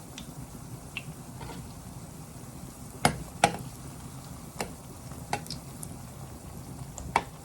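Plantain frying in oil with a steady low sizzle, broken by about five sharp clicks, the loudest two a little past the halfway point.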